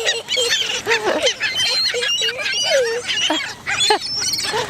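A flock of seagulls calling over one another, gathered for food being handed out. Many short, overlapping squawks and cries.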